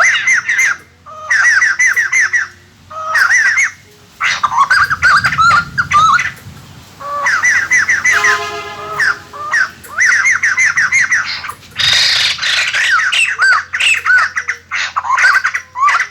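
White-crested laughingthrushes calling in loud bouts of rapid, chattering cackles, each bout a second or two long with short pauses between. This is the excited group call used as a lure to bring wild birds in.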